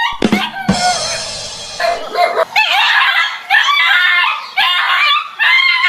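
A dog making repeated high-pitched barking and yelping calls. A different, steadier sound breaks in for the first two seconds or so.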